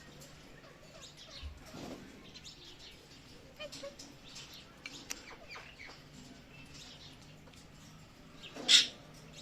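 Pet parrot making soft chirps and scratchy little sounds, then one loud short call near the end.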